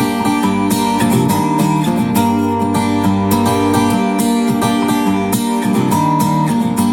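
Acoustic guitar playing strummed chords in a steady rhythm, an instrumental passage with no singing.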